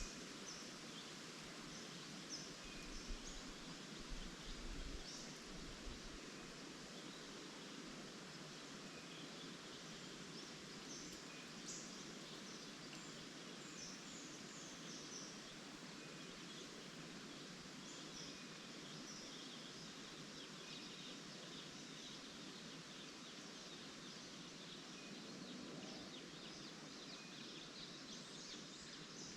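Faint, steady rustle of tree leaves in the wind, with scattered short, high bird calls and chirps throughout. A brief low rumble comes a few seconds in.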